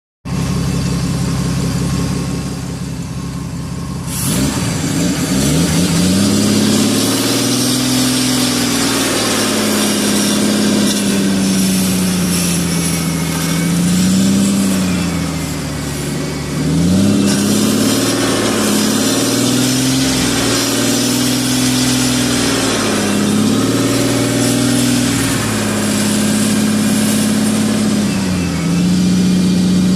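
Car engine idling for about four seconds, then revved hard over and over: the pitch climbs, holds high for a few seconds and drops back several times, run near the top of its rev range.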